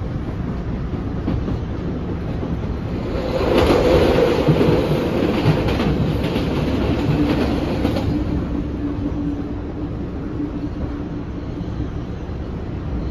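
PATH PA5 railcar running along the track, heard from inside the car: a steady low rumble of wheels on rail. About three seconds in, a loud rush lasting some four seconds as another train passes close alongside, then a steady hum.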